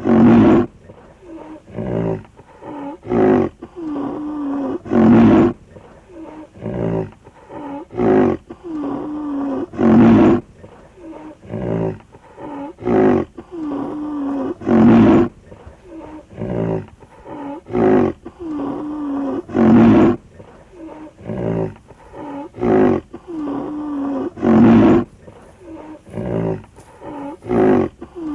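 Rhinoceros calls used as a looped sound effect: a loud, rough roaring call about every five seconds, with shorter calls between, the same sequence repeating over and over.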